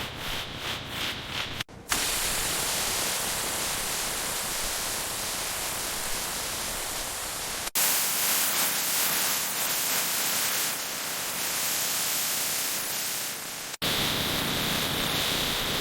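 Rhythmic hand-sanding strokes, about three a second, then a sudden cut to a steady hiss from a rust-removal or surface-prep tool. The hiss runs in three stretches, each broken off by a sudden cut.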